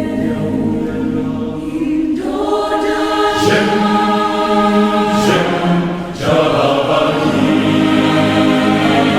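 Background music of choral singing: several voices holding long notes that change chord a few times.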